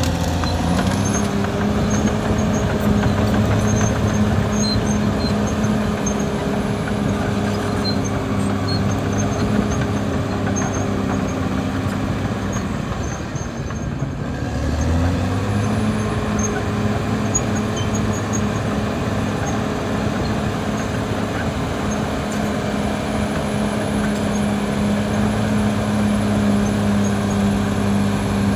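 Caterpillar D6R XL bulldozer's diesel engine running steadily under working load. Past the middle its note sags and drops, then picks back up and holds.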